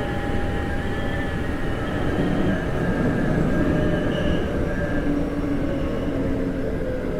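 Cab-end interior running noise of a Keikyu 1500 series (1700 subseries) electric train with a Toyo GTO-VVVF inverter: a continuous rumble of wheels on rail under several steady electrical whine tones from the traction equipment, with the air conditioning running.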